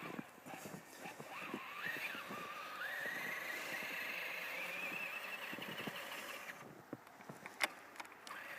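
Radio-controlled scale truck's electric motor and drivetrain whining as it drives through deep snow. The pitch climbs as the truck speeds up and then holds, and it cuts off about six and a half seconds in. There is one sharp click near the end.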